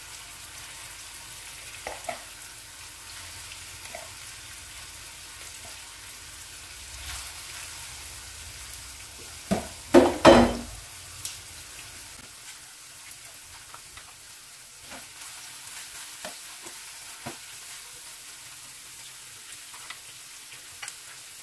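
Shrimp frying in olive oil with mushrooms in a nonstick pan, a steady sizzle. Light clicks come here and there, with a louder clatter about ten seconds in as the shrimp are moved about with tongs.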